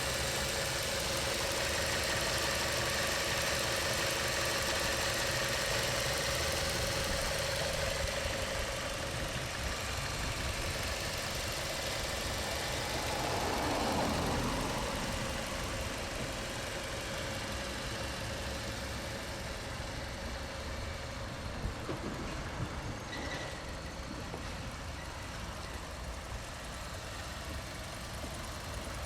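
2006 Mazda 6's 2-litre inline-four idling steadily, with a brief louder swell about halfway through.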